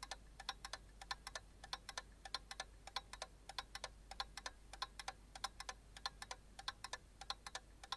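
Light ticking clicks, about five a second in uneven clusters, over a faint low hum.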